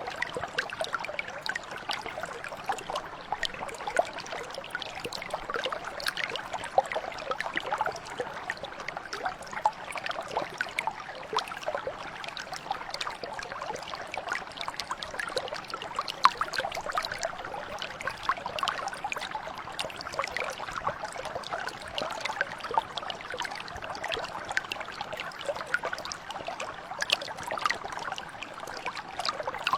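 Mountain brook flowing steadily, a continuous babble of many small trickles and splashes.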